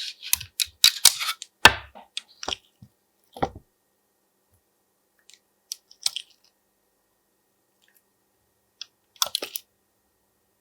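Slime being squished and worked by hand: short sticky crackles and pops, dense over the first two seconds, then a few scattered clicks and another cluster near the end, with silence between.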